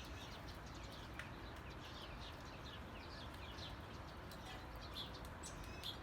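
Faint bird chirping: a steady series of short, high, falling chirps, about two or three a second, over a low background hum.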